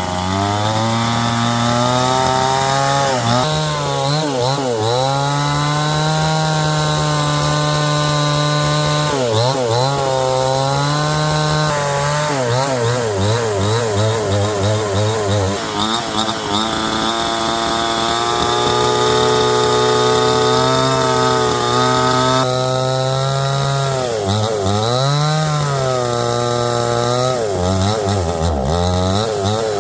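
Chainsaw running and cutting wood, its engine pitch dropping and climbing back again and again as the chain bites and clears.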